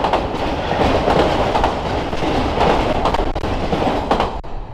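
Freight train of autorack cars rolling past close by, its wheels clacking over the rail joints, until the last car passes about four seconds in and the noise falls away as the train recedes.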